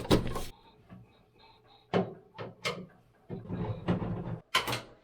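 About five sharp knocks and clunks, roughly a second apart, from the sheet-metal cabinet panels of a gas clothes dryer being worked loose and handled.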